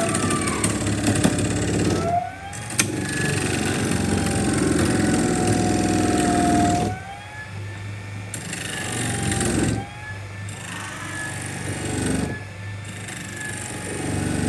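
Electric power tool motor running in several bursts, its pitch sagging and recovering as it is worked against the material and easing off between passes.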